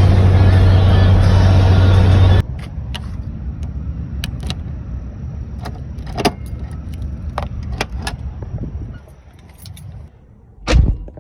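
Loud steady vehicle running noise with a low hum that cuts off abruptly after about two seconds, followed by scattered sharp clicks and knocks and one louder thump near the end.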